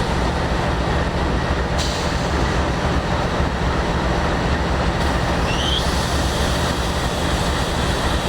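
Diesel freight locomotives running with a steady low drone as the train moves slowly. There is a brief faint high squeak about halfway through.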